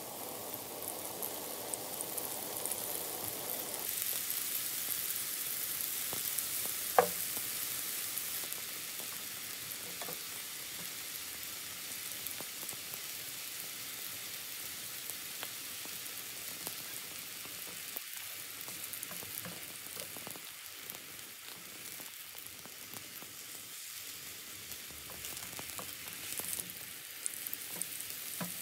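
Enoki mushrooms sizzling in oil in a frying pan over medium heat: a steady high hiss that swells for a few seconds early on and then settles. There is a single sharp click about seven seconds in, with a few fainter ticks near the end.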